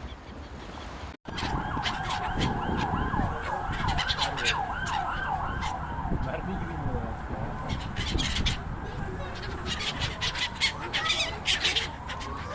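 A flock of seagulls calling, many quick, repeated, rising-and-falling cries over steady low wind and surf noise. A slow rising and falling wail runs underneath. The sound drops out for an instant about a second in.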